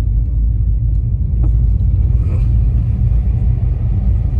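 Steady low rumble of an all-wheel-drive car driving on a snowy road, heard from inside the cabin: road and engine noise.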